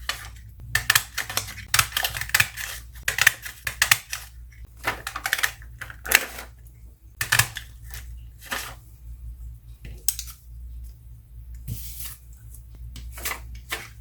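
Paper map being cut into one-inch circles: a run of short, crisp clicks and crunches coming in clusters about a second apart.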